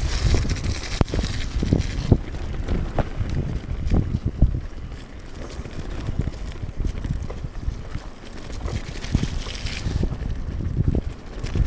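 Wind buffeting the microphone while riding a mountain bike down a rough, wet trail, with irregular knocks and rattles from the bike over the ground. A hissing band rises for the first two seconds and again shortly before the end.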